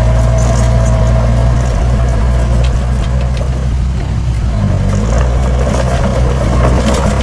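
Heavy earthmoving machine's diesel engine running steadily, its low note shifting slightly about four to five seconds in, with scattered rattles and clicks.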